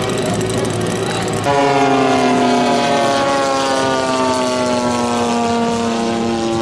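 Engine running, then, after an abrupt change about a second and a half in, a giant-scale radio-control model airplane flying past, its propeller engine note falling slowly and steadily in pitch.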